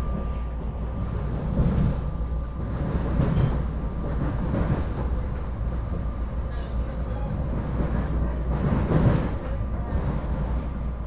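Interior ride noise of a SEPTA regional rail passenger car in motion: a steady low rumble with louder swells of clatter, heard from inside the car. A faint high whine fades out about three seconds in.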